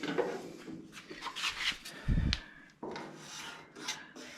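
A wooden paint stick scraping and rubbing as it is slid through a car's door gap to gauge the fit, in several scraping strokes. A dull thump comes about two seconds in.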